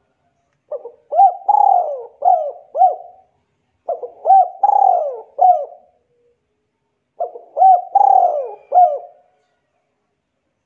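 A bird calling: three phrases of about five quick, arching notes each, repeated roughly every three seconds.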